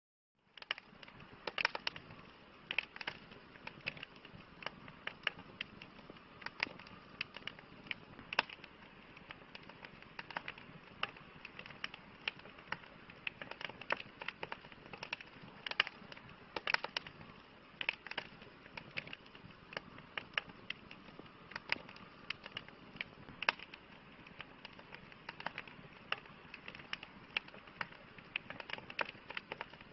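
Wood campfire crackling: a steady hiss of burning with irregular sharp pops, several a second, that starts abruptly about half a second in after a moment of silence.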